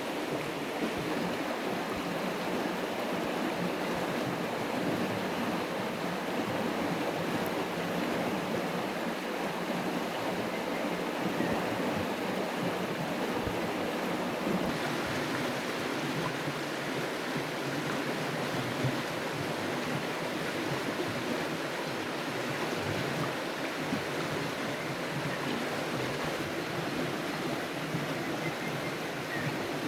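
Steady rush of moving water, an even noise with no rhythm, holding the same level throughout.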